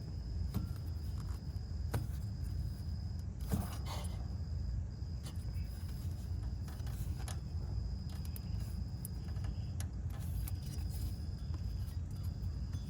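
Scattered clicks, knocks and scrapes of hands rocking and turning the water pump pulley of a Toyota Sienna engine to check it for play, over a steady low rumble. The pulley has play: the water pump bearing is worn out.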